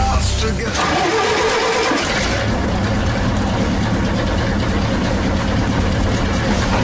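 Ford baquet's engine being started with the dashboard starter button: it turns over unevenly for a second or two, then catches and runs steadily.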